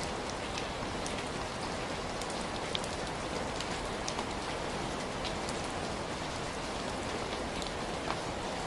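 Heavy rain falling steadily, a constant even hiss with individual close drops ticking here and there.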